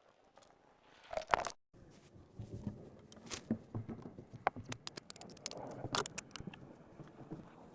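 Irregular small clicks, clinks and knocks over a low rustling, with the loudest sharp clicks about five to six seconds in.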